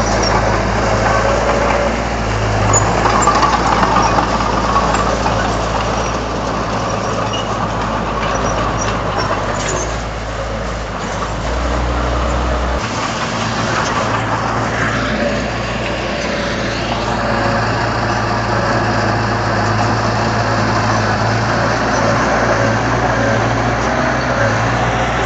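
Heavy diesel engine of a Komatsu D31 bulldozer running steadily under work. Its deep hum changes about halfway through, when the lowest part of the note drops away.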